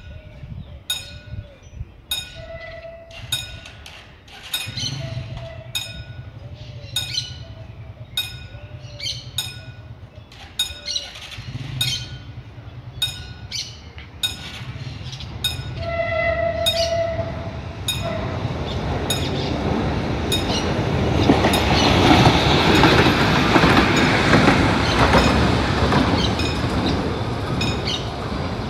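Level-crossing warning bell ringing in a steady rhythm of sharp strikes as a CAF-UTA 3700 light-rail car approaches. About sixteen seconds in the car gives one short horn blast, then its running noise swells as it passes, loudest in the last third.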